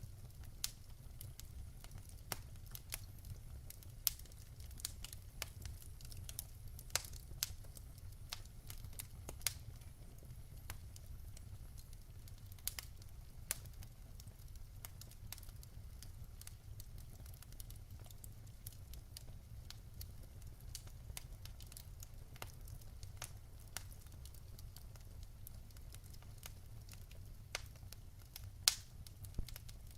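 Wood fire burning in a fireplace: a low steady rumble with scattered sharp crackles and pops at irregular intervals, a few louder pops near the end.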